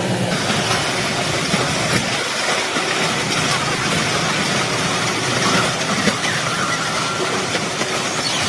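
Train running along a ballasted track: a steady, loud rush of wheels on rails.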